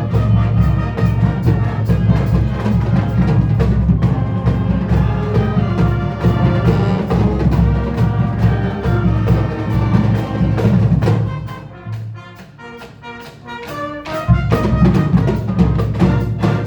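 Marching band music: brass and drums playing together. About eleven seconds in it drops to a quieter passage of held notes, then the full band with drums comes back in a few seconds later.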